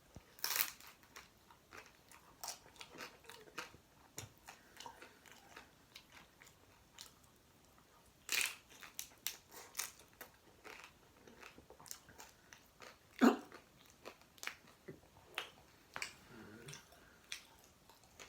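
A person biting into and chewing a chickpea curry and mashed potato taco, with irregular wet clicks and smacks. The three loudest bites come about half a second in, about eight seconds in and about thirteen seconds in.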